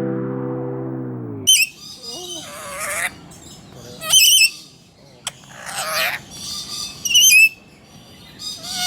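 A held chord of backing music cuts off about a second and a half in, then birds call loudly: several harsh squawks with a warbling, wavering pitch, a second or two apart.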